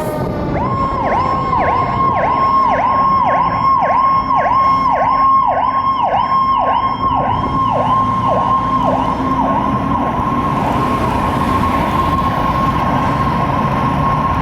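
Fire engine's siren cycling rapidly, about two or three quick dips in pitch a second, then settling into a steady high tone for the last few seconds, over the rumble of the truck.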